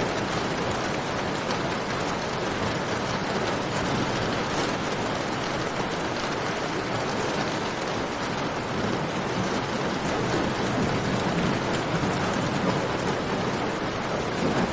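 Steady rain with the scattered small crackles of a campfire, a constant wash of noise with faint ticks through it.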